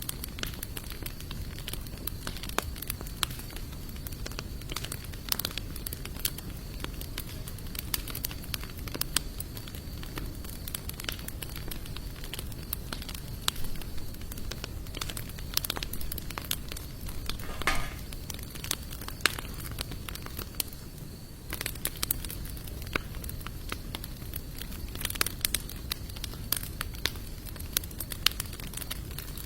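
Campfire of sawtooth oak and mixed hardwood logs burning, with frequent irregular sharp crackles and pops over a low steady rustle of flame. A brief pitched squeal sounds about two-thirds of the way through.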